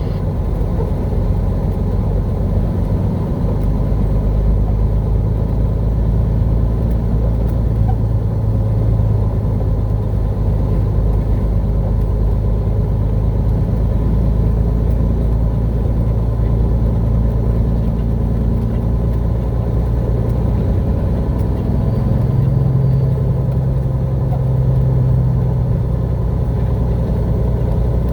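Heavy truck's diesel engine running steadily, heard from inside the cab. Its note shifts slightly about three-quarters of the way through.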